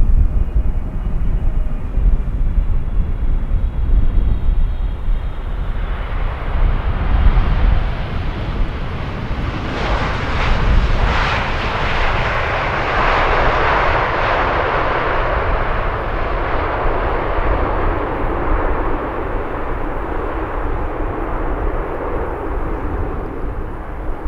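Jet airliner's engines passing by: a faint high whine at first, then a broad jet noise that builds to its loudest about halfway through and slowly fades. A deep low rumble runs under it in the first half.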